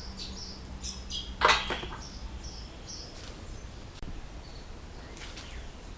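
A small bird chirping repeatedly in short high notes, with a sharp clatter about one and a half seconds in and a few fainter knocks later.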